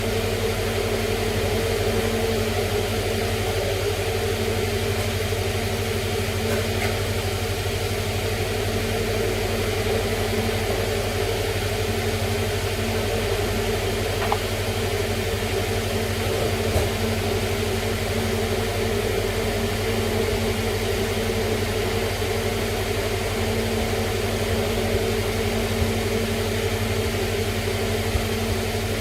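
Steady mechanical hum that does not change, with a couple of faint ticks about halfway through.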